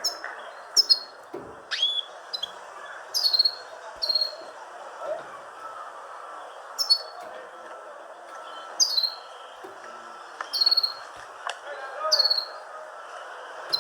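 Small birds chirping: about a dozen short, high, downward-sliding chirps repeated every second or two, over a steady background noise.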